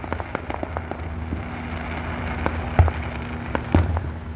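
Fireworks finale: a dense run of sharp crackling pops, with two heavier booms in the second half, over a steady low hum.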